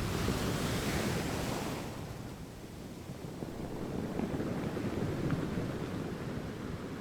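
Ocean surf washing on a shore: a wave's hiss fades out about two seconds in, leaving a lower, swelling rumble of surf.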